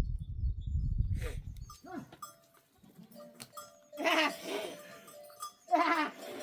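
A low rumble for the first second and a half, then sheep bleating in a flock, with two loud wavering bleats about four and six seconds in. Behind them a livestock bell rings steadily.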